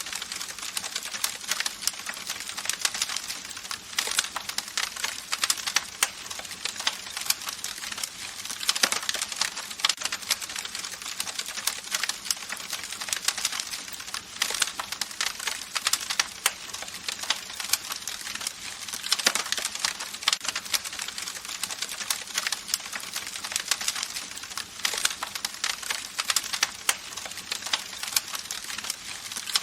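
Campfire crackling: dense, irregular pops and snaps over a steady hiss of the flames.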